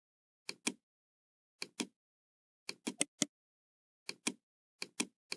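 Computer mouse clicking: short sharp clicks in pairs about a fifth of a second apart, roughly once a second, with a quicker run of four clicks near the middle.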